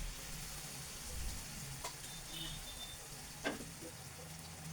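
Onion and mustard masala sizzling gently in oil in a pan, with two light clicks partway through. The masala is fried down, its oil separated.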